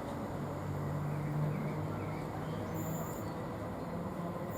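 Low steady hum and rumble of a Class 321 electric multiple unit pulling away from the platform, with brief faint high chirps about three seconds in.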